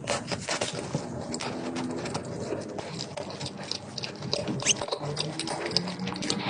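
Close-up eating sounds: a rapid, dense run of crackly chewing and mouth clicks.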